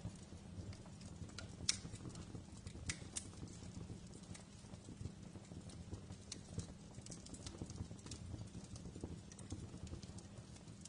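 Wood fire crackling in a fireplace: irregular sharp pops and snaps over a low, steady rumble, the loudest pop about a second and a half in.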